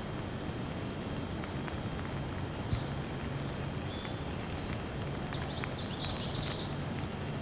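Steady rain with scattered drip ticks, and birds chirping over it: a few short high chirps, then a quick run of rapid chirps about five to seven seconds in.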